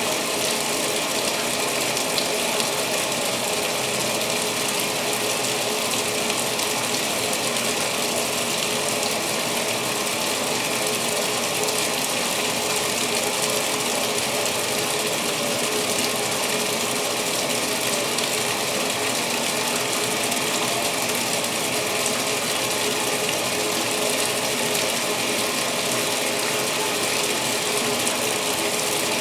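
2016 Speed Queen washing machine filling with water for the main wash: a steady rush and splash of water pouring into the tub of towels.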